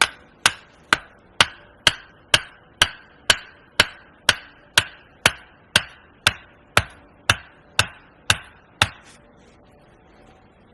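Steady hammering: nineteen evenly spaced blows, about two a second, each with a short ring, stopping near the end.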